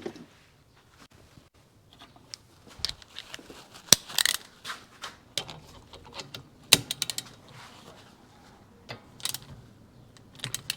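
Metal hand tools clicking and clinking against metal as nuts are tightened with a wrench, in scattered taps with two sharper clacks about four and seven seconds in.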